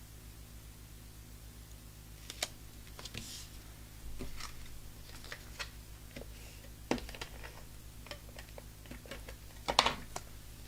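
Irregular small clicks, taps and brief paper rustles of card-making materials being handled on a desk, over a steady low hum, with the loudest clatter about a second before the end.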